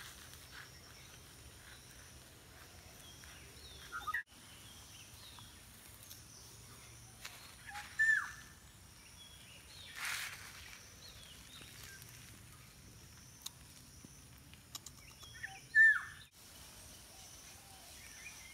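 Outdoor ambience full of small birds chirping, with two louder, short falling calls about eight seconds apart.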